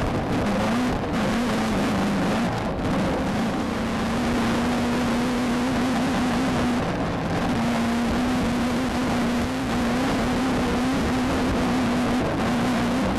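Engine of a VW Beetle-based desert race car running hard at steady revs, heard from inside the car. The engine dips briefly about seven seconds in, over a constant rush of tyres, dirt and wind.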